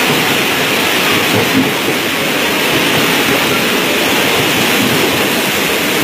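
Passenger train running through floodwater on the tracks past a platform, its wheels throwing up water in a steady loud spray.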